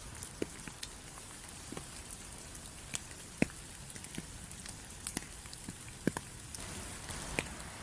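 Rain falling: a steady hiss with single heavy drops landing as sharp, irregular ticks, about one or two a second.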